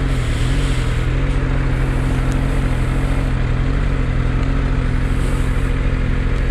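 Motorcycle engine running at a steady, unchanging pitch, with a constant rushing noise over it.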